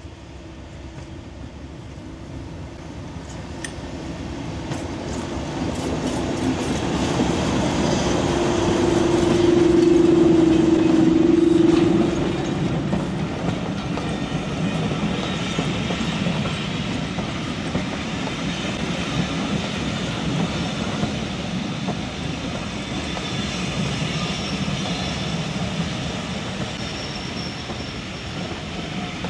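A diesel locomotive approaches and passes close by. Its engine note grows louder to a peak about ten to twelve seconds in, then drops suddenly as the locomotive passes. Its train of coaches then rolls steadily past on the track.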